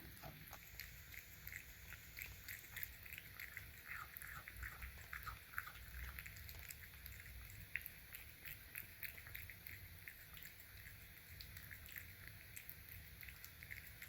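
A cat eating wet canned food: faint, irregular small clicks of chewing.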